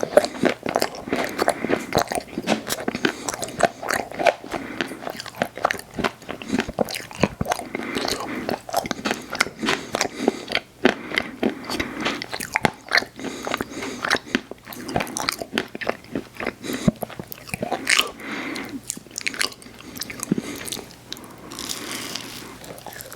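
A person biting and chewing ice cream treats close to the microphone, with dense, irregular crunching and mouth clicks.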